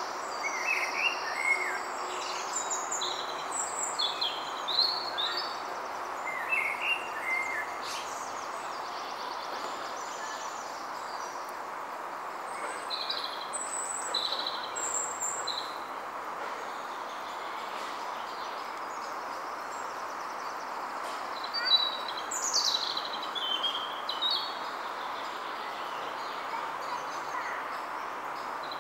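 Several songbirds singing in short chirps and trills over a steady rushing background noise; the birds are busiest near the start and again about three quarters of the way through.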